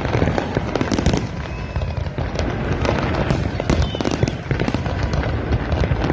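Fireworks display: a dense, continuous barrage of aerial shells and rockets bursting, with many bangs overlapping.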